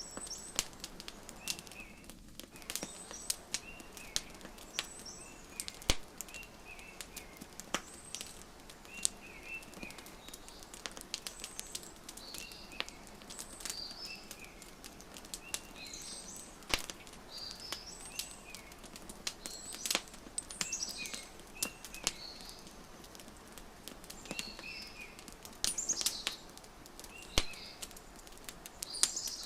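Wood fire crackling, with irregular sharp pops, the loudest about six seconds in and again near the end. Small birds chirp in short repeated calls through it.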